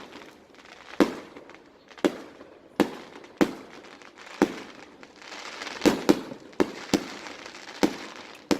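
Aerial fireworks display: shells bursting in about eleven sharp bangs at uneven intervals, some in quick pairs, with crackling between the reports.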